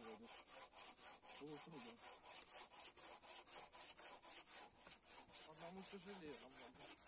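Bow saw cutting through a log on a wooden sawhorse, worked two-handed by two people, with rapid, even rasping strokes. The sound is faint.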